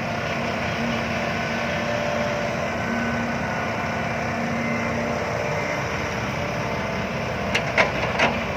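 Dump truck's diesel engine running steadily, with a few sharp clacks about three-quarters of the way through.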